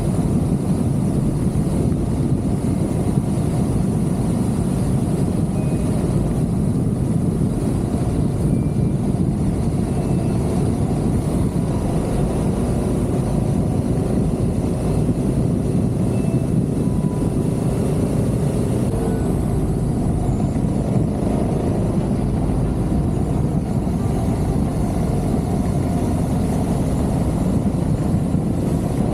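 Adventure motorcycle running steadily on the move, a constant engine and road rumble.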